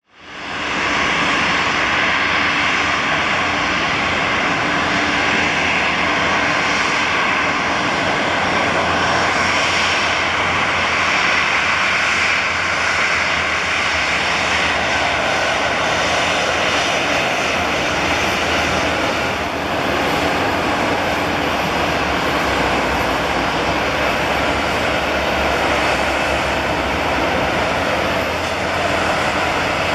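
Airliner engines running steadily, a loud, even noise with a faint steady whine, fading in over the first second.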